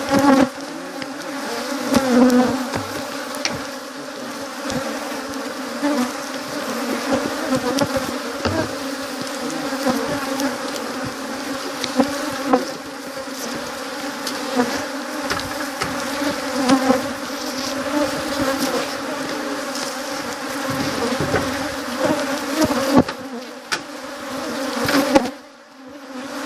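Honey bees buzzing in a dense, steady hum, with scattered light knocks; the hum drops away briefly about a second before the end.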